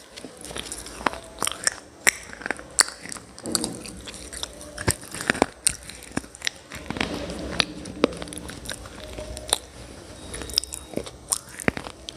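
A person biting and chewing hard, brittle mineral pieces such as slate pencil and baked clay close to the microphone: sharp irregular crunches and snaps, with grinding chewing between them.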